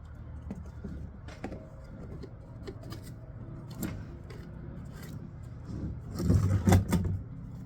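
A run of light clicks and scrapes from things being handled, with a louder clatter of knocks about six seconds in.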